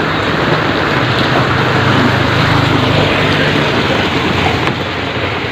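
Heavy rain pouring steadily, with a motor vehicle's engine running low underneath it through the first few seconds.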